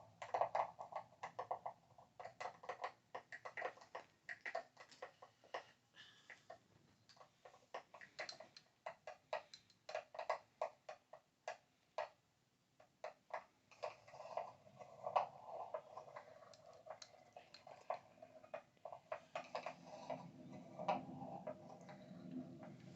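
Quick, light tapping on small hard objects in irregular runs of clicks, with a short pause a little past the middle and a softer rubbing sound under the taps in the second half.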